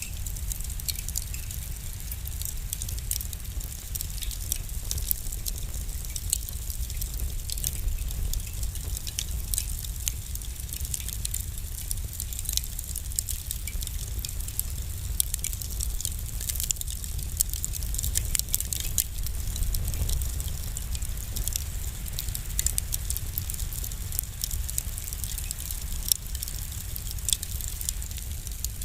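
Wood fire crackling: many small, sharp pops over a steady low rumble, with a louder pop near the end.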